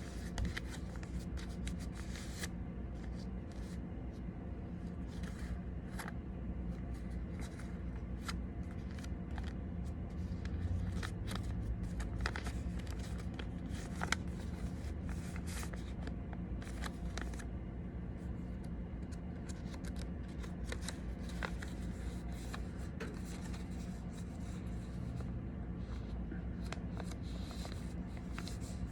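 Paper being folded and creased by hand, with scattered crisp rustles and crinkles over a steady low hum.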